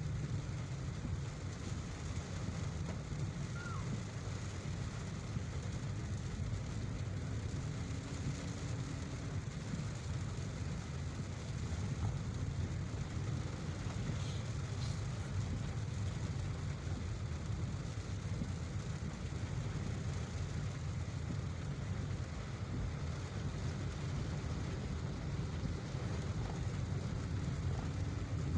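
A car driving in heavy rain: a steady low rumble of engine and tyres under an even hiss of rain.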